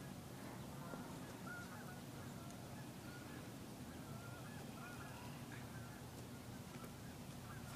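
Faint bird calls, short wavering chirps repeated again and again, over a steady low rumble.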